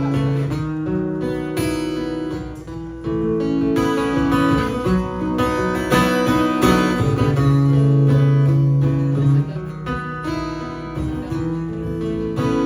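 Acoustic guitar playing an instrumental passage of a song, with strummed chords ringing out and sustained notes.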